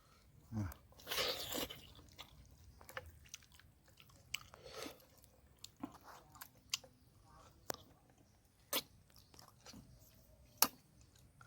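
A person chewing and biting a meal of braised pork trotters with raw winged beans and mustard leaves close to the microphone, with scattered wet mouth clicks. A louder crunchy bite comes about a second in.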